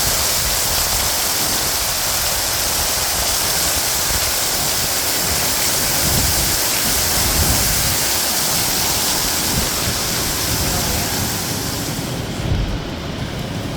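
Hailstorm: hailstones pelting down in a dense, steady hiss of impacts with a low rumble underneath. About twelve seconds in, the sharper high part of the hiss suddenly thins out.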